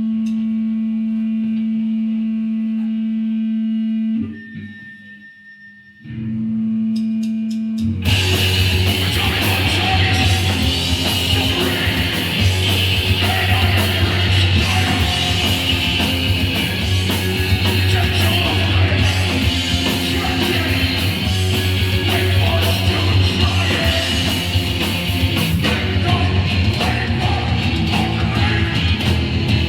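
Live hardcore punk band with guitar, bass and drums: a single held note rings steadily, drops out briefly about four seconds in, and then the full band comes in loud with distorted guitar about eight seconds in and plays on.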